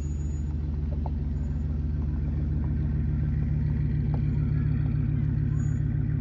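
Car engine running steadily, with an even low pulse.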